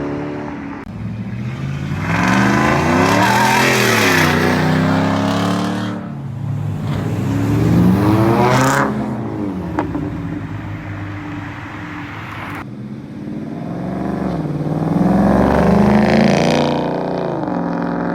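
Car engines revving and accelerating hard, the engine pitch climbing and falling back three times: a few seconds in, again about halfway, and near the end.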